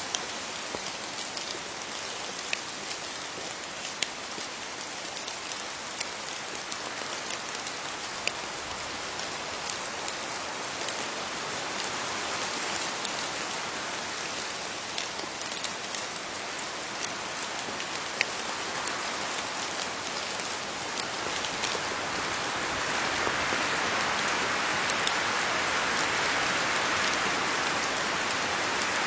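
Steady rain falling on leaves, an even patter with scattered sharper drip hits, growing a little heavier and louder about three-quarters of the way through.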